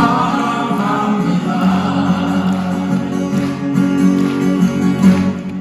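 Male vocal quartet singing a slow love song to acoustic guitars, drawing out the sung word "사랑합니다" as a long held note.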